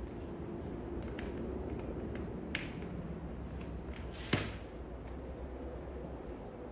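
Several short sharp clicks and one louder snap a little past the middle, over a steady low hum.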